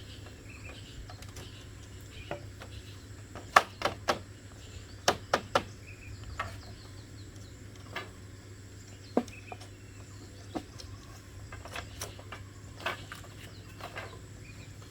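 Irregular sharp knocks and taps, with a quick cluster of the loudest a few seconds in and scattered single ones after. Under them run a steady low hum and faint insect and bird chirps.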